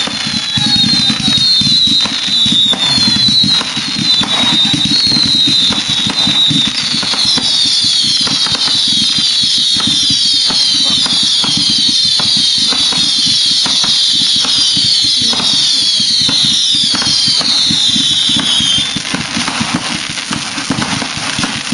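Fireworks going off: a dense barrage of high whistles, each dropping in pitch, overlapping with pops, bangs and crackling. The whistling stops about nineteen seconds in, leaving scattered bangs.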